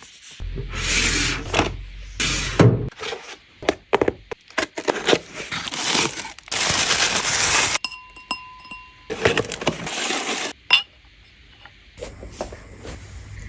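A string of household handling sounds: clinks and knocks of glass or crockery between stretches of hissing noise, with a steady high tone lasting about a second a little past the middle.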